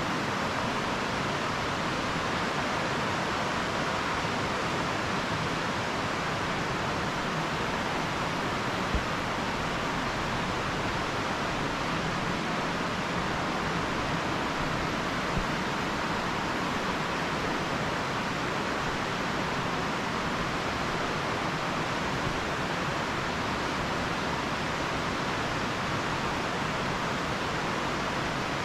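Steady, even rushing noise with no change in level, and two faint knocks about nine and fifteen seconds in.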